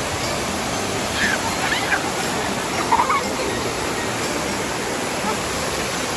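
Waterfall water rushing in a steady, even noise, the flow running strong. A few brief voices call out over it between about one and three seconds in.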